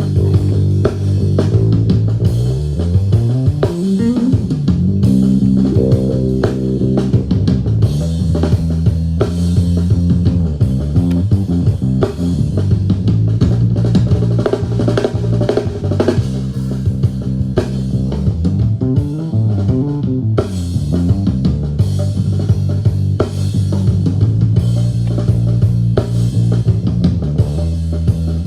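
Multitrack band recording played back during a mixing sound check: bass guitar loud and forward with sliding notes, over a drum kit and guitar.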